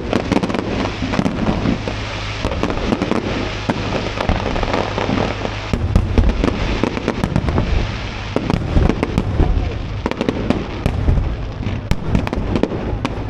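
Fireworks display: dense, continuous crackling and popping, with many sharp bangs coming close together.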